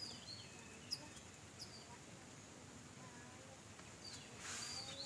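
Faint outdoor ambience of small birds chirping here and there. A light tap comes about a second in, and a brief rustle near the end.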